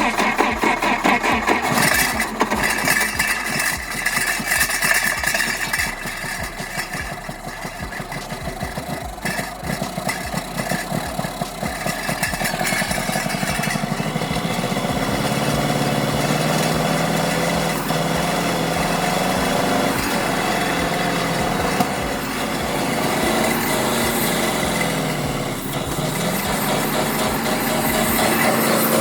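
1954 GAZ-M20 Pobeda's four-cylinder flathead engine running after long standing, unevenly at first with a ragged, misfiring beat that the men put down to not all cylinders firing. From about halfway it runs more evenly, its speed rising and falling a few times.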